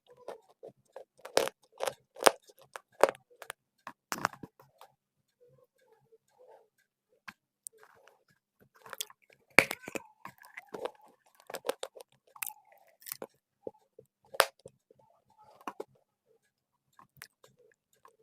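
Close-miked crunching and chewing of dry clay: sharp, crisp bites and crunches in clusters, with a quieter pause of a few seconds near the middle.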